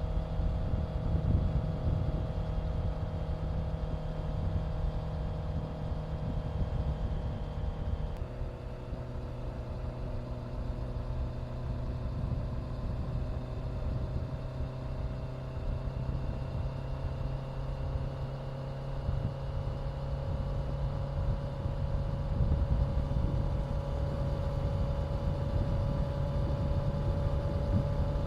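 Honda CBR650F's inline-four engine running under way. About a quarter of the way in, the pitch steps down suddenly at an upshift, then rises slowly as the bike gathers speed in the new gear.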